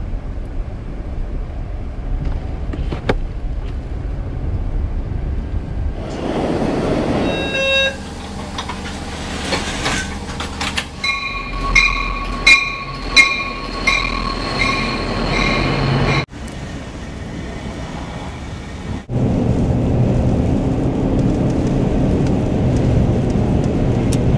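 Train running on rails, heard in several short cuts with abrupt changes in the rumble. About halfway through, a multi-note horn sounds in a series of short pulses for about five seconds.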